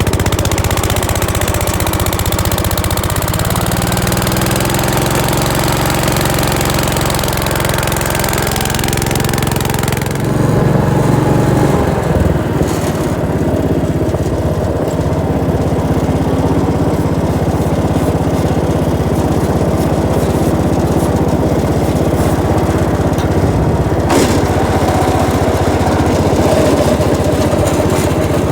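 Gravely 430 tractor engine running just after a cold start, speeding up a little about three seconds in. About ten seconds in its note turns rougher and lower, with a sharp click near the end.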